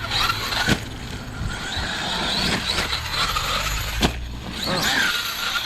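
Large electric RC truck's brushless motor whining up and down in pitch as it is driven hard. Two sharp knocks, about a second in and again about four seconds in, sound like the truck landing or hitting something.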